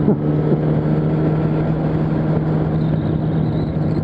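Yamaha R1's inline-four engine running at a steady, unchanging pitch while riding, with wind and road rush underneath.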